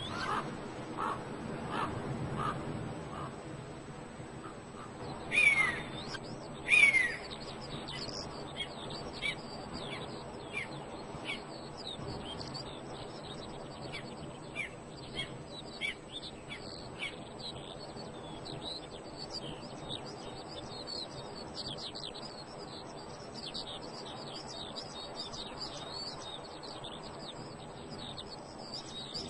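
Wild birds calling: a long run of short, high chirps, with two louder calls falling in pitch about five and seven seconds in.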